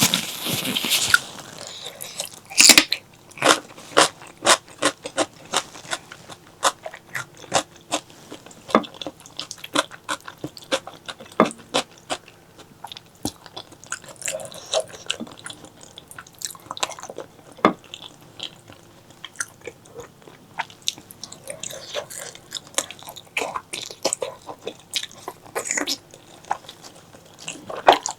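Close-miked mouth sounds of eating spicy pork leg curry: wet chewing and biting in a steady run of sharp smacks and clicks, opening with a brief hissing burst.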